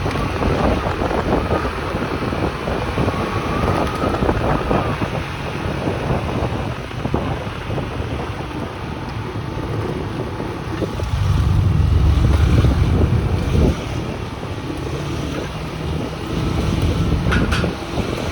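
Small motorcycle being ridden, its engine running under heavy wind noise on the microphone. A stronger rush of wind rumble comes about two-thirds of the way through.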